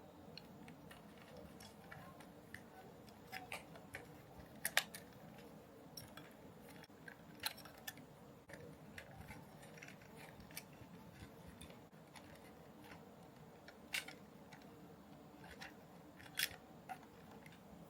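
Irregular small clicks and snips of hand tools and plastic parts being handled during model kit assembly, the sharpest about 5 s in and twice near the end, over a faint steady hum.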